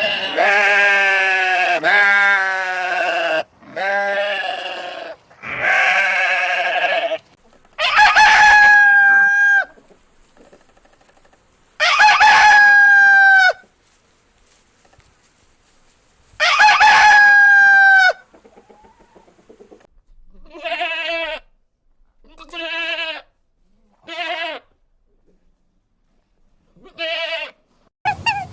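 Roosters crowing: a run of long crows, three of them held on one note and dropping at the end, followed by a few shorter calls near the end.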